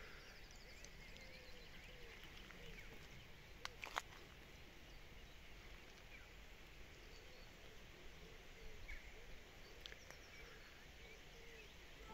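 Faint open-country ambience with birds chirping and a short trill, and two sharp clicks about four seconds in.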